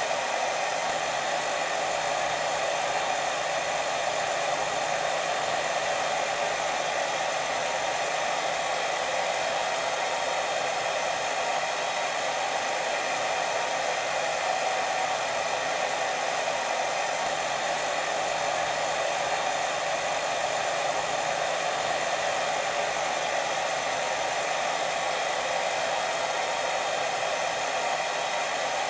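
Steady white noise for sleep, an even unbroken hiss that does not change.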